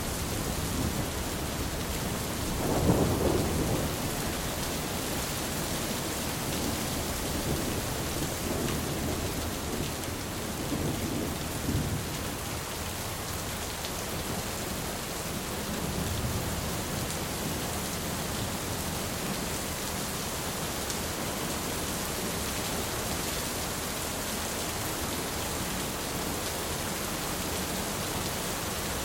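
Steady heavy rain falling, with a roll of thunder rumbling about three seconds in and fainter distant rumbles later.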